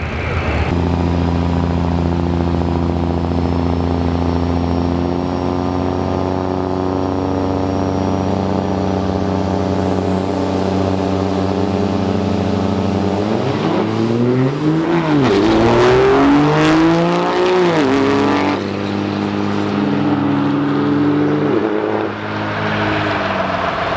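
Turbo-diesel drag trucks running at steady high revs with a faint high whine rising. About 13 s in, the engine note climbs and falls several times, as on a launch and run through the gears, then holds steady before dropping away near the end.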